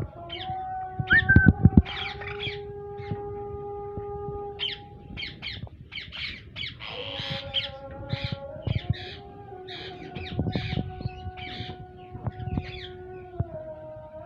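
Alexandrine parakeets squawking, many short harsh calls in quick succession, over a steady droning tone.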